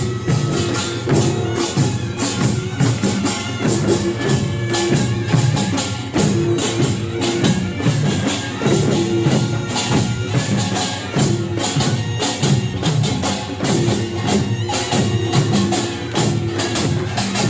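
Korean pungmul farmers' band playing a fast, dense rhythm: kkwaenggwari small gongs clanging over janggu hourglass drums, buk barrel drums and jing gong, continuously and loudly.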